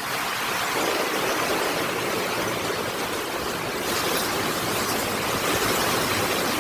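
Heavy thunderstorm rain pouring down in a dense, steady hiss, growing heavier about a second in and again near four seconds.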